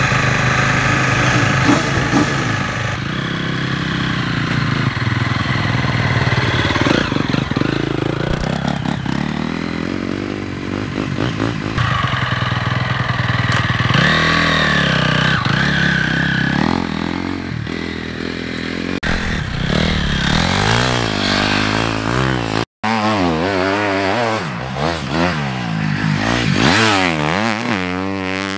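Triumph motocross bike engine running, mostly steady at first, then revving up and down again and again over the last several seconds as the bike is ridden through the sand, with a brief break in the sound about two-thirds of the way through.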